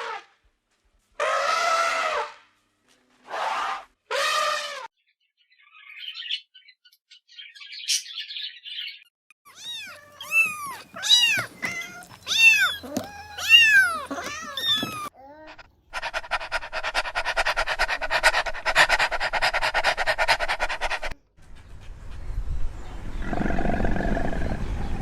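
A string of different animal calls, one after another with short gaps: a few short pitched cries, then a run of quick rising-and-falling chirps, then a steady buzzing call with a rapid pulse.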